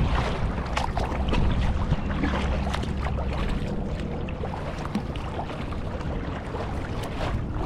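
Water splashing and dripping around a kayak under paddle, many small scattered splashes, over a steady low wind rumble on the microphone.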